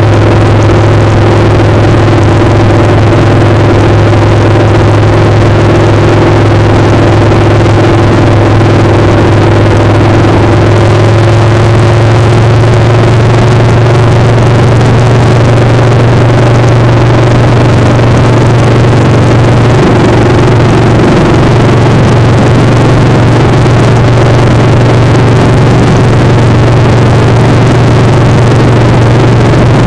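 Motorcycle engine running loudly at a steady pace, its pitch rising slightly partway through, under a constant rush of wind noise.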